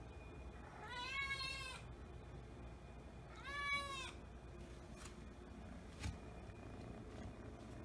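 Russian Blue kitten meowing twice, begging: two high calls, each rising and then falling in pitch and lasting about a second. A short knock follows a few seconds later.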